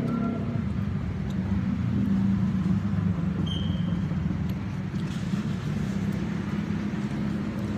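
Steady rumble of road traffic passing close by, with a brief high-pitched tone about three and a half seconds in.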